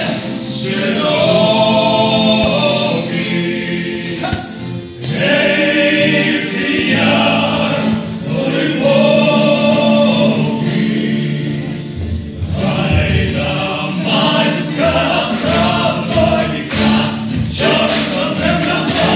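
Music with a choir singing; about twelve seconds in, a steady percussion beat comes in under the voices.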